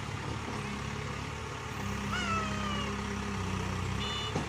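Case 851 backhoe loader's diesel engine running steadily, pulling a little harder about two seconds in. A single call falling in pitch sounds over it near the same moment. The machine's reversing alarm starts beeping near the end.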